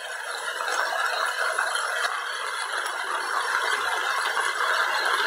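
Chicken pieces and corn kernels frying in a hot pan while a wooden spatula stirs and scrapes through them, a busy rattling sizzle that grows louder over the first second or so.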